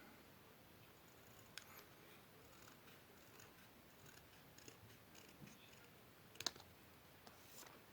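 Quiet paper-craft work: a few faint snips and clicks of paper being cut, the sharpest a short click about six and a half seconds in, over near silence.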